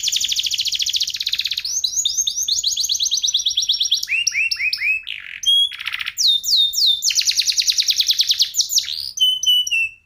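Domestic canary (F1SF) singing in rapid rolling trills of quickly repeated notes, broken by phrases of lower downward-sweeping notes. The song stops abruptly at the very end.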